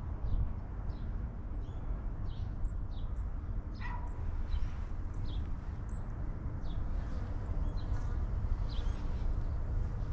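Birds chirping with short, high, sharply falling calls, roughly two a second, over a steady low rumble.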